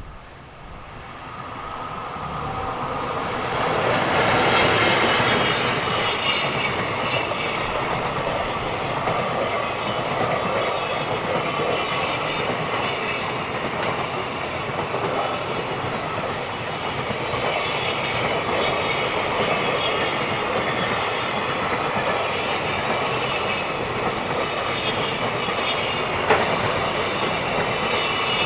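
Long freight train approaching and passing close by. Its noise builds over the first few seconds, then holds as a long steady rolling of many wagons on the rails, with one sharp click near the end.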